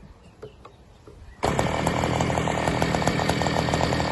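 ASP .61 two-stroke glow engine on a model plane being started by flicking the propeller by hand: a faint click or two, then about a second and a half in it fires and keeps running loud and steady at a fast rate.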